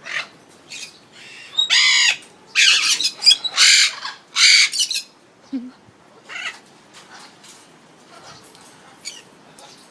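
Pet parrot squawking: a run of four loud, harsh squawks in quick succession about two to five seconds in, followed by softer, scattered chirps.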